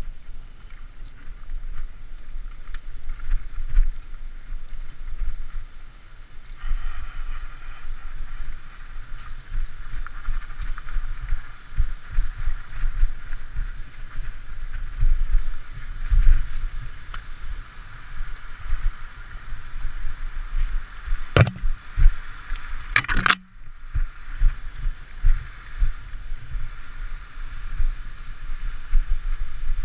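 Mountain bike ridden over a dirt singletrack, heard close up from the bike or rider: a continuous low rumble of wind and trail bumps, with a steady hiss that comes in a few seconds in. A few sharp clacks come about two-thirds of the way through.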